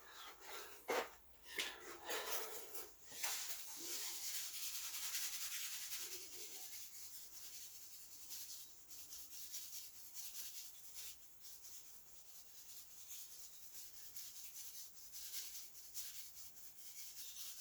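Faint rubbing and scuffing, with a few light knocks in the first few seconds.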